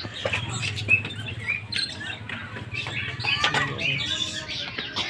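Small caged birds chirping, with many short, high calls overlapping, and a few clicks.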